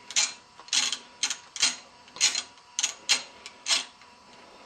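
Ratchet wrench clicking in short bursts, about eight strokes at roughly two a second, as a bracket bolt is run in and tightened.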